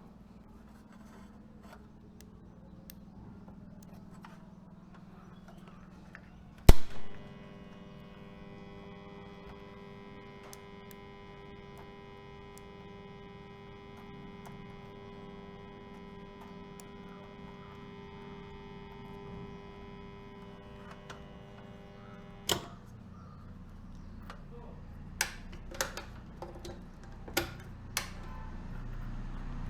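A sharp click, then a steady electrical hum made of several fixed tones for about fifteen seconds, cut off by another click, as of mains equipment in the panel being switched on and off. A few separate clicks follow near the end.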